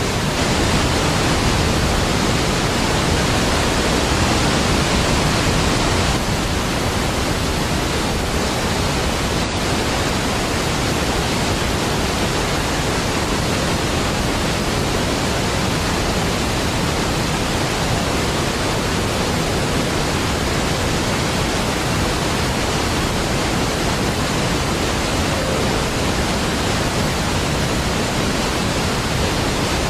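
Steady, dense rush of a large waterfall, Niagara Falls, heard as an unbroken wash of falling water. It drops a little in level about six seconds in.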